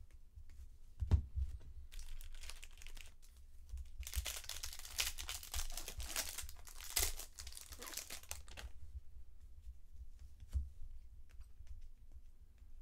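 Foil wrapper of a trading-card pack being torn open and crinkled, most intense for about four seconds in the middle, with a knock about a second in and softer rustling before and after.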